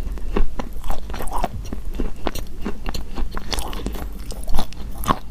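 Close-up crunching and chewing of pieces of eating chalk: dense, irregular crackling bites, with a loud crunch about four and a half seconds in.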